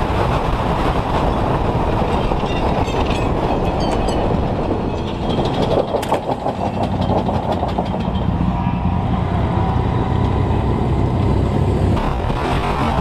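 A steady, loud rumble of a moving vehicle mixed with wind noise, with a sharp click about six seconds in.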